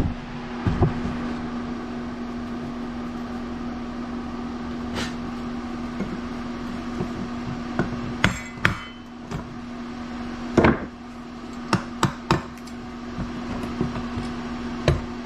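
Scattered sharp metal knocks and taps from hand tools working on a small engine's parts during a teardown, including a loud strike about two-thirds of the way through and a quick run of three soon after, over a steady low hum.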